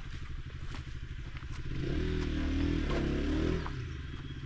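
Motorcycle engine running at low speed, revving harder for about two seconds in the middle and then dropping back.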